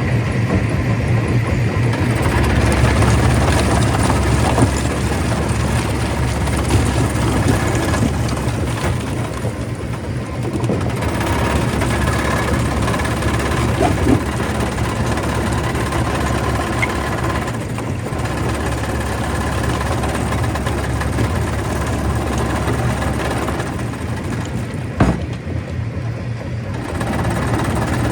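Stone crusher running: a steady, loud machine drone over a constant low hum, with a few sharp knocks, the loudest about three-quarters of the way through.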